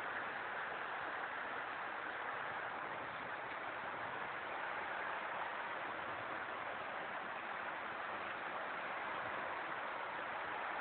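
Heavy rain pouring down, a steady even rushing hiss with no let-up.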